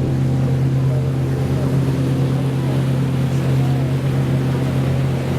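Ferry boat's motor running steadily, a constant low drone heard from on board.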